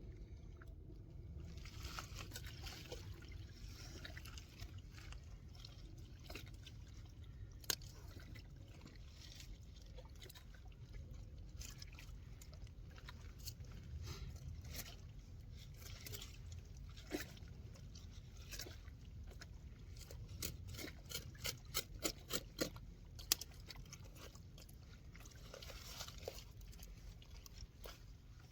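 Water trickling and sloshing, with scattered light clicks and knocks, several in quick succession a little past two thirds of the way through.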